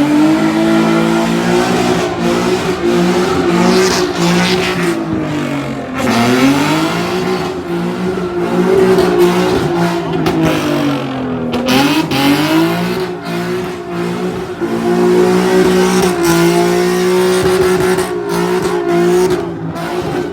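Performance car engine held at high revs: it climbs at the start, dips and climbs back twice, then holds steady, with tyre noise over it, as in a burnout.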